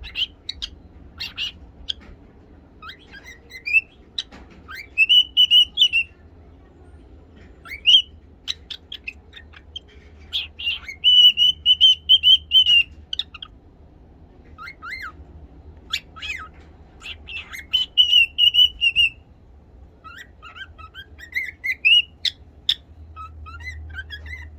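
Pet cockatiel whistling: repeated phrases of rising slides into held notes, broken up by short sharp chirps.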